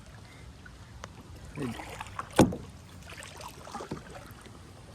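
Kayak paddling: paddle strokes moving through the water, with one sharp knock about halfway through that is the loudest sound.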